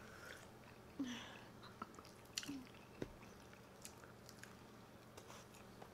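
Faint wet chewing and biting of chicken wings by two people, with scattered soft clicks and smacks.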